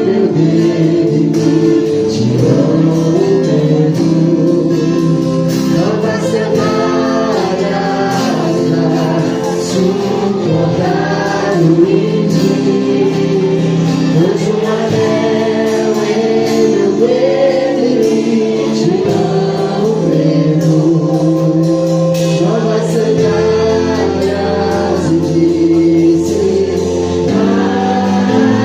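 Gospel worship song: choir and lead voices singing over a full band with drums, with a deeper bass line coming in about 23 seconds in.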